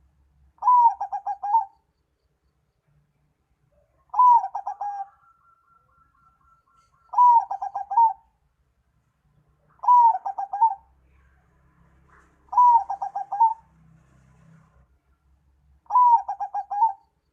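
Zebra dove (perkutut) song: a phrase of about a second, one higher opening note followed by a rapid string of short coos, repeated six times about every three seconds.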